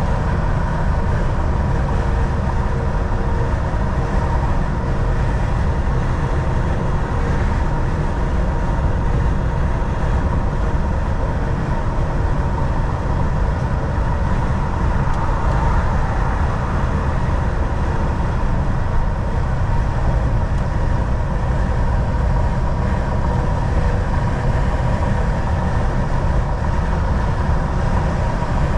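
Volvo VNL 760 semi truck cruising at highway speed, heard from inside the cab: a steady deep engine and road drone with a thin, steady higher tone running over it.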